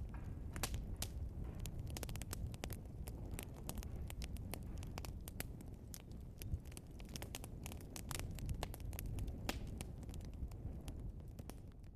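Log fire burning, with a steady low rumble of flames and frequent sharp crackles and pops from the burning wood.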